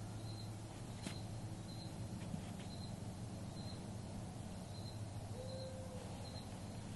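A cricket chirping steadily, short high chirps about three every two seconds, over a low steady hum. There is one sharp click about a second in.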